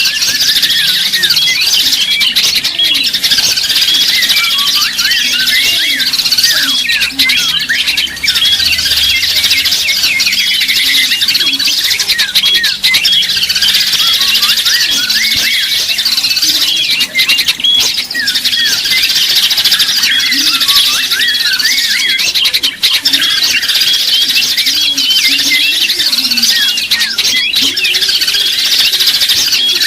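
Dense chorus of many small songbirds chirping and twittering over one another without a break: a bird-lure (pikat) recording of small birds.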